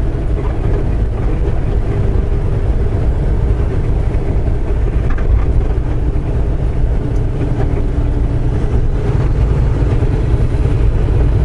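Semi truck driving at road speed: a steady low drone of engine and road noise.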